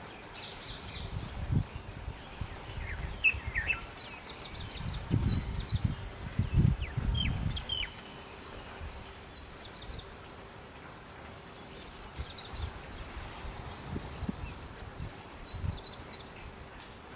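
A songbird repeating a short, fast, high-pitched trilled phrase about every three seconds, with a few lower down-slurred chirps between phrases in the first half. Low rumbling thumps come and go under it, loudest a third of the way in, over a steady hiss.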